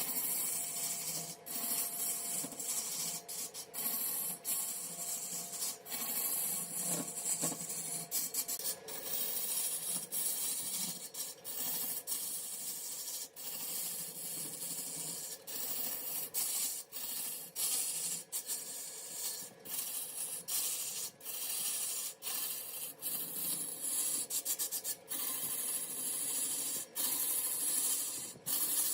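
Mahogany workpiece spinning on a woodworking lathe while being scraped: a steady hissing scrape broken by many brief gaps as contact lifts off and returns, over a faint steady hum.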